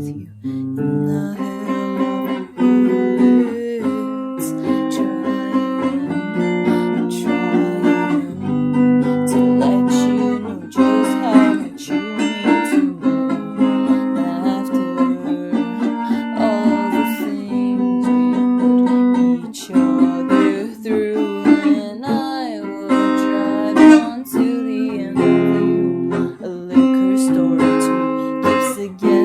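Acoustic guitar playing a song, strummed chords mixed with plucked notes.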